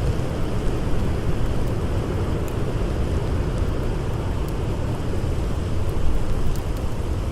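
Blizzard wind blowing steadily, a deep even noise, with a few faint crackles of a campfire.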